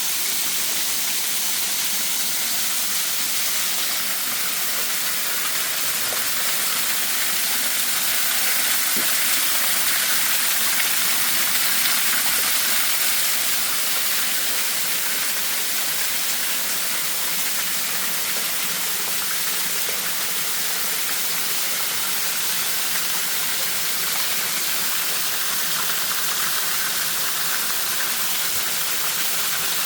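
Waterfall: a steady rush of falling water, swelling slightly about ten seconds in.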